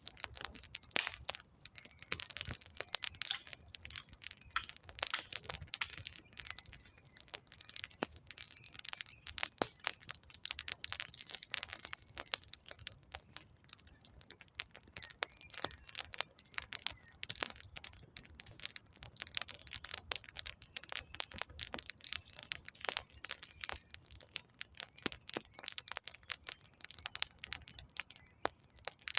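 Wood fire crackling: a steady run of irregular sharp pops and snaps from burning firewood.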